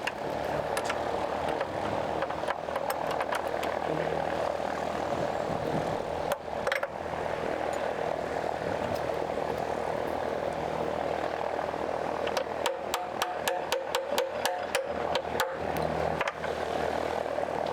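A steady engine-like drone with a low hum under it. From about twelve seconds in, a hand ratchet clicks rapidly as bolts on the Bristol Olympus engine are wound out.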